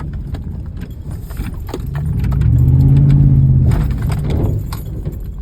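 Truck engine revving up and easing back down once in the middle, while driving through deep mud. Short knocks and rattles throughout as the truck jolts over the rough ground.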